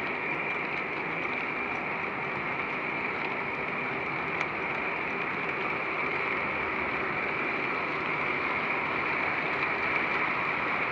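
Model train running on a layout track: a steady, even rolling noise that holds level throughout.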